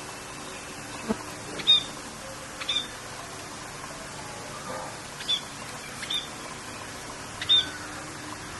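Short, sharp bird chirps repeated about five times at uneven intervals over a steady hiss of rain.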